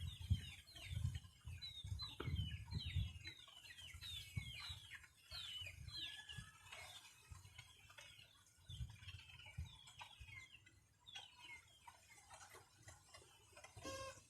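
Chicks peeping: many short, high peeps that fall in pitch, coming thick and fast for the first half and more scattered after, with some dull low thumps underneath.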